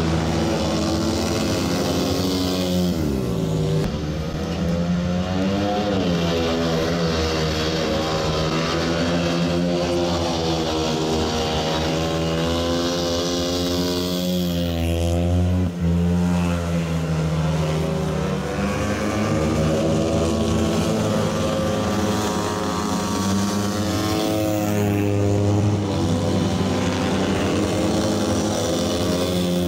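Speedway bike's single-cylinder 500 cc methanol engine lapping the track, running hard with its pitch dipping and climbing again every few seconds as the throttle is eased and opened through the bends.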